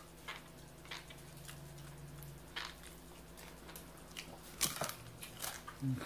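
Close-miked mouth sounds of someone eating rotisserie chicken: chewing with scattered wet clicks and smacks, the loudest near the end. A steady low hum runs through the first couple of seconds.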